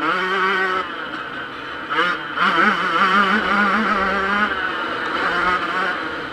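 Yamaha YZ125 two-stroke motocross engine at high revs, its pitch rising and falling as the throttle is worked, with a sharp rev-up about two seconds in.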